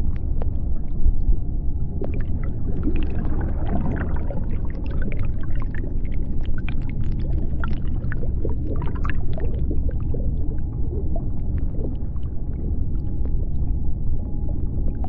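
Underwater ambience: a steady low rumble with many sharp clicks throughout and a cluster of short squeaky, chirping calls in the middle.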